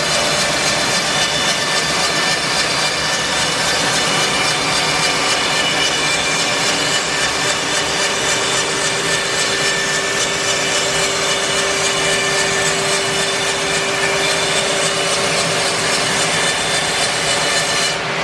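Portable bandsaw mill running steadily, its blade cutting through an English larch log.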